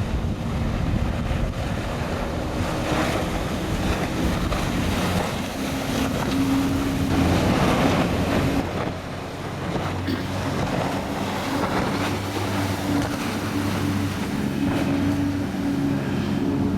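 A Formula 31 PC express cruiser running on the water: a steady hum from its twin 6.2 MPI V8 engines under the rush of water and wind.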